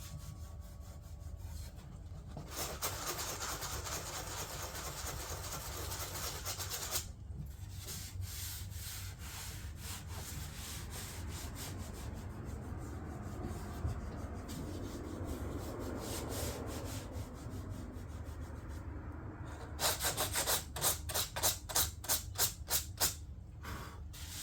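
Sandpaper being rubbed over a repaired fiberglass door panel by hand, a continuous rasping scrape. Near the end it turns to quick back-and-forth strokes, about three a second, as the surface is worked flat for upholstery.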